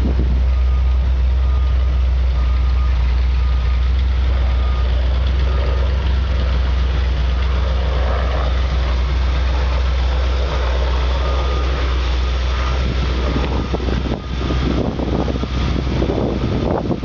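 1978 Dodge Li'l Red Express pickup's 360 V8 idling with a steady low rumble. About fourteen seconds in the rumble falls away and gusts of wind on the microphone take over.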